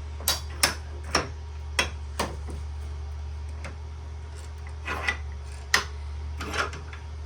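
A handful of sharp, irregular metal clicks and knocks as a steel furnace burner assembly and tools are handled and repositioned in a bench vise to get leverage on a brass fitting, over a steady low hum.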